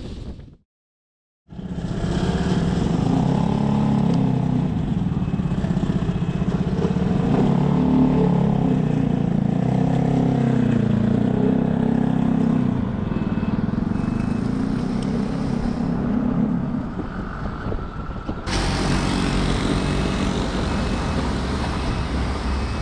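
A motor engine running steadily, its pitch wavering up and down. The sound drops out for about a second just after the start, and near the end a loud hiss joins in.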